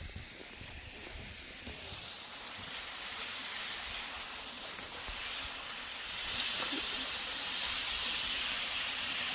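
Water rushing at a partly frozen waterfall: a steady hiss that grows slowly louder over the first few seconds, its brightest top end falling away near the end.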